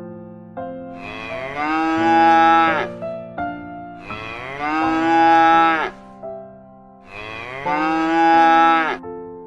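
A cow mooing three times, each moo about two seconds long, rising a little in pitch and then falling away. Light keyboard music plays underneath.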